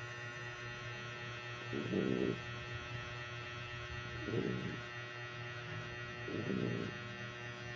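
Dog snoring: three snores about two seconds apart, over a steady electrical hum.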